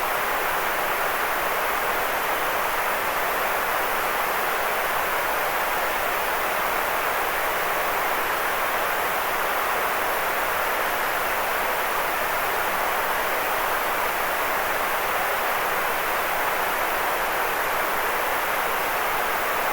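Continuous white noise: an unchanging hiss, fullest in the middle range and thinner in the deep bass.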